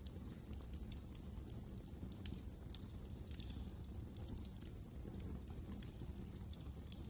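Wood fire burning in a fireplace, crackling with frequent irregular sharp snaps and pops over a steady low rumble of flames.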